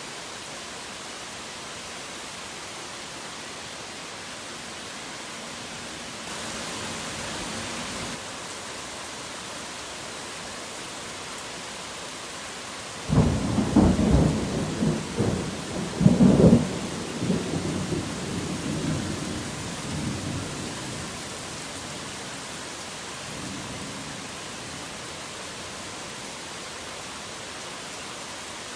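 Steady heavy rain hiss that swells briefly about six seconds in. About thirteen seconds in, a close thunderclap starts suddenly with crackling strokes, peaks again about three seconds later, then rumbles away over several seconds.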